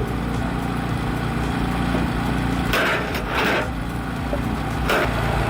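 A log splitter's engine runs with a steady hum while wood splits with short cracking bursts, three times from about three seconds in.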